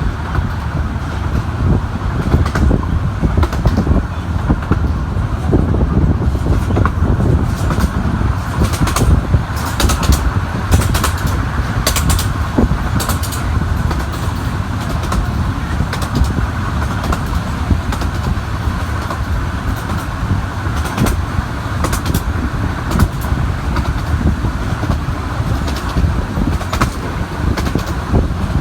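A 15-inch gauge miniature railway train running: a steady rumble with frequent sharp clicks over it.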